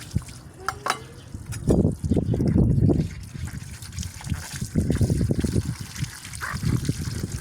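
Water splashing and trickling in uneven surges as dishes are rinsed by hand, with a couple of light clicks about a second in.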